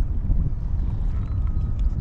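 Wind buffeting the microphone, a steady low rumble, with a faint high thin tone in the second half.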